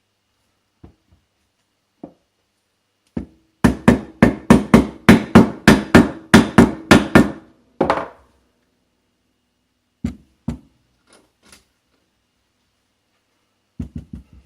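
A quick run of about fifteen hammer blows at about four a second, with a ringing tone under them. A few single knocks come before and after.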